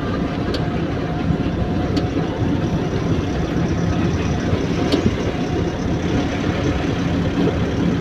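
Truck engine and road noise running steadily, with a low hum, broken by three short sharp clicks.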